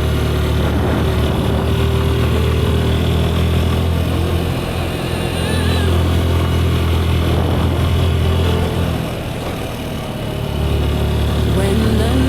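Sports motorcycle's engine running steadily while riding. The engine note drops away for about a second and a half around nine to ten seconds in, then picks up again.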